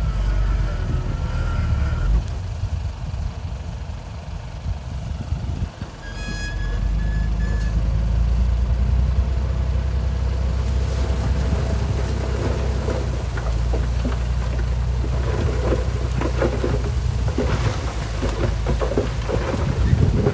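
Truck engine running with a steady deep rumble. A short tone sounds about six seconds in, and from about halfway a rough, crackling rush of noise joins the engine.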